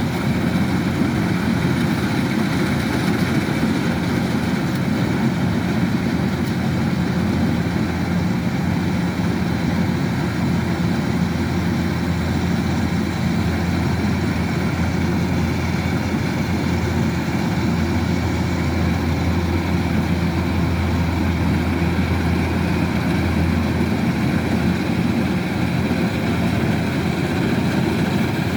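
Kubota DC-105X combine harvester's diesel engine running steadily with a constant low drone.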